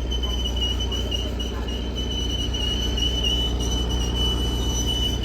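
Train wheels squealing in a steady high tone over the low rumble of the moving train.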